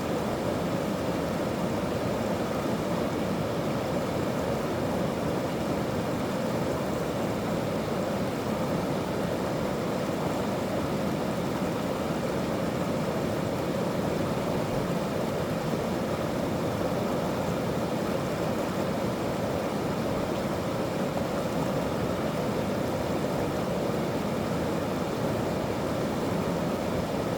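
Mountain stream rushing over rocks in a steady, even roar.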